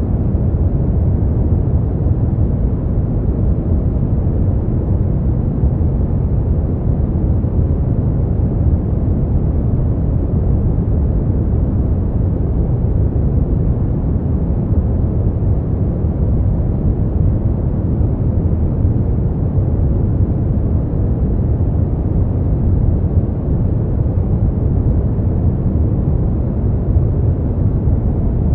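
Steady sleep-noise track: an unbroken, deep rushing noise with most of its weight in the bass and no high hiss, closer to brown noise than to true white noise.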